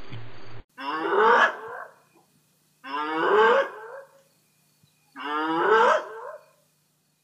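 Spotted hyena whooping: three separate calls a couple of seconds apart, each rising in pitch over about a second. Before them, a noisier recording cuts off suddenly.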